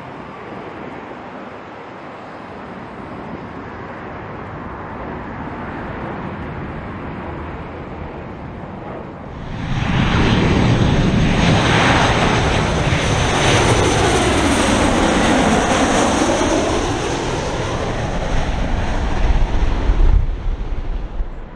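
Jet airliner passing close by at LAX, its engines rushing. The sound builds slowly, then jumps sharply louder about halfway, with a high turbine whine over the roar, before dropping away and cutting off at the end.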